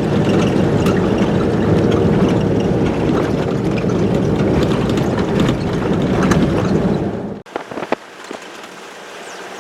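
Vehicle on the move: loud steady engine and road noise with many small rattles, which cuts off abruptly about seven and a half seconds in, leaving quieter rattling and a few sharp knocks.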